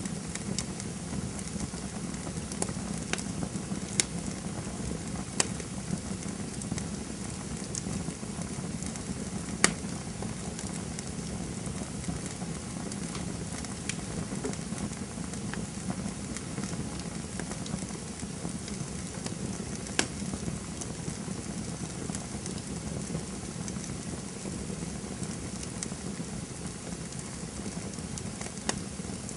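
Campfire burning with a steady low rumbling hiss and sharp crackles and pops every few seconds, the loudest about ten seconds in.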